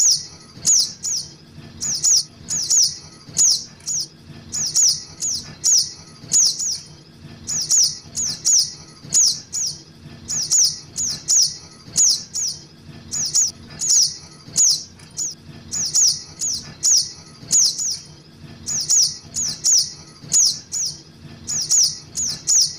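Juvenile spiderhunter (sogok ontong) calling: sharp, high chirps, each falling in pitch, given in quick runs of two or three and repeated without a break.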